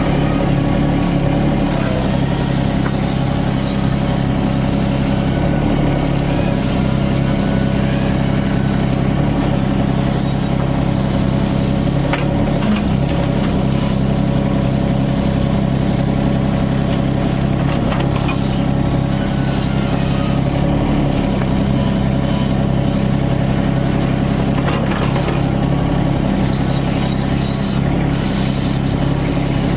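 Yanmar ViO25 mini excavator's three-cylinder diesel engine running steadily under working load while digging out a stump, with a few brief knocks along the way.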